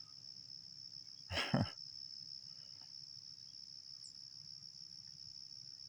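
A steady, high-pitched insect chorus, with one short, louder sound about one and a half seconds in.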